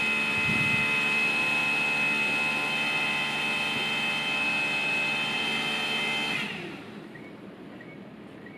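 Steady motor whine with several fixed tones from the ENR-1000 snow-removal maintenance vehicle's start-up sequence, before its engine fires. The whine cuts off abruptly about six and a half seconds in, leaving much quieter background.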